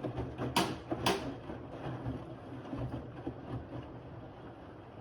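Bosch WAV28G93 front-loading washing machine in the main wash of a 60 °C towels programme, its drum turning the wet towels. Two sharp swishes come about half a second and a second in, over a steady low motor hum.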